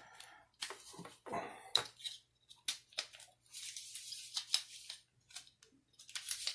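Scattered light clicks and rustling of small plastic parts being handled and fitted as a Toyota airbag clock spring is reassembled.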